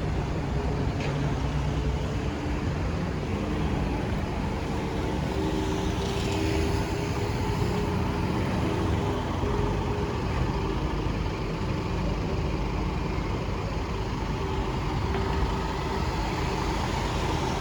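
Motor vehicle engine running steadily amid street traffic noise, an even hum with a steady low drone.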